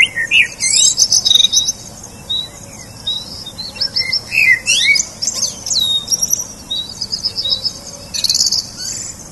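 Small birds chirping and tweeting: many quick, high chirps and short whistles overlapping, with no pause.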